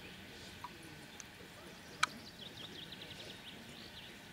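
Quiet outdoor ambience with small birds chirping, including a quick run of high chirps in the second half, and a single sharp click about two seconds in.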